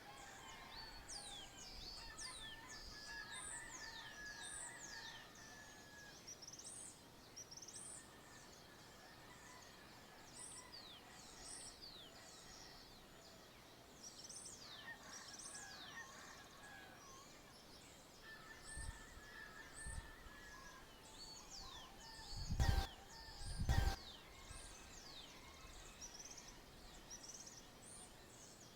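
Dawn chorus of small birds: many short, high-pitched chirps falling in pitch, repeated over and over, with some lower warbling beneath. About two-thirds of the way through, two loud thumps come about a second apart.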